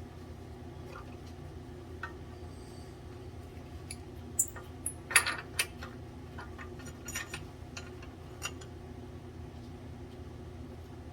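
Handful of sharp metallic clinks and taps from parts and tools being handled on the boiler, clustered about four to six seconds in with a few more after, over a steady low hum.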